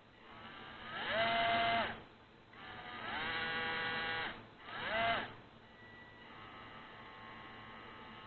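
WPL C24-1 RC truck's small 370 electric motor and reduction gears whining as they spin up, hold speed and wind down, three times; the third run is short. A fainter steady whine follows. The reduction gears have just been freshly lubricated.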